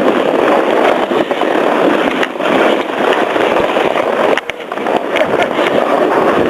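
Steady scraping hiss of sliding down a packed-snow cat track on snow gear, easing briefly about four and a half seconds in.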